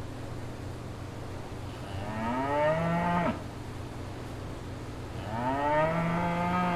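Cow mooing twice, each moo about a second and a half long and rising in pitch, over a steady low hum.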